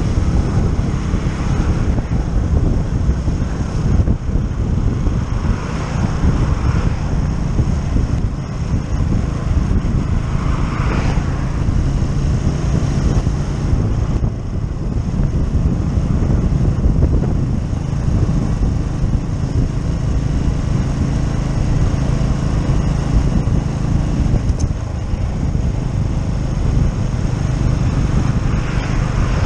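Keeway Superlight 125 motorcycle engine running steadily while riding, with wind rushing over the microphone.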